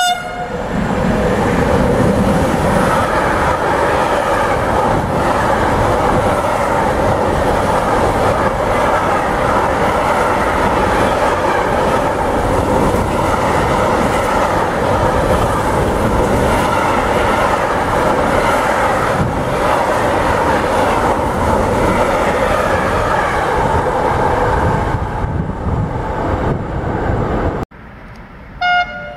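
Fast freight train of container wagons passing close by at speed: a loud, continuous rush of wheels on rail carrying steady tones, lasting about 27 seconds before cutting off suddenly. Near the end comes a short blast of a train horn.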